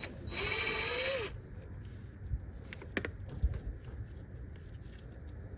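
A small electric tool motor whines for about a second, rising in pitch, then stops; a sharp click follows a couple of seconds later, with light knocks of tools and parts.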